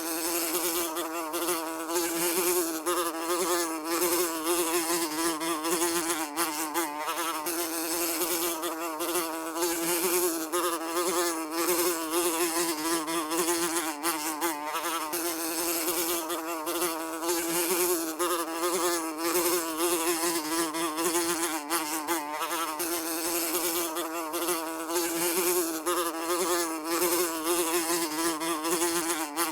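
A fly's wings buzzing steadily, a droning hum whose pitch wavers slightly.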